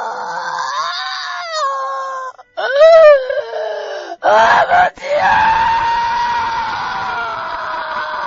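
A person's voice wailing and screaming in anguish, in long drawn-out cries that rise and fall in pitch, breaking into a cry of "Father!" about five seconds in.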